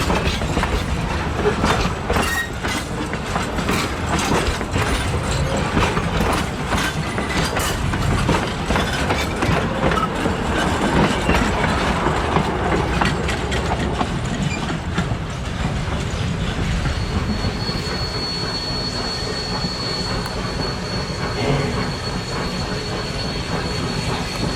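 Heritage train's carriage wheels rolling past on the rails, clicking over the rail joints in quick irregular runs. In the last third a thin, steady, high wheel squeal joins in.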